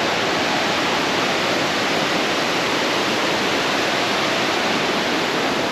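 Rushing water from a river waterfall: a steady, even rush that does not change.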